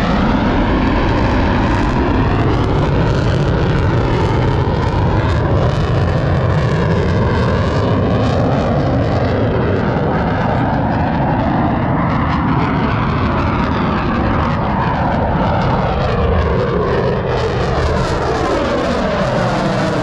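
Twin-engine F/A-18 jet roaring past and away, a loud, steady rumble with a slowly sweeping, phasing quality as the aircraft moves.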